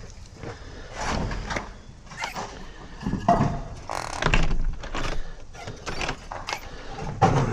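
A UPVC door and its handle-operated gearbox lock being worked by hand, giving a run of separate clunks and clacks a second or so apart.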